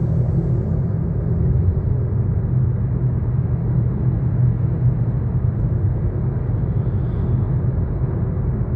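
Steady low rumble of a car's engine and tyres at motorway speed, heard from inside the cabin.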